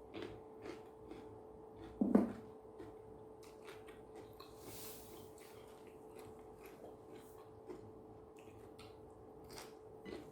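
Close-up eating sounds: a person chewing food with soft, irregular smacks and clicks of the mouth, and a brief louder sound about two seconds in. A faint steady hum runs underneath.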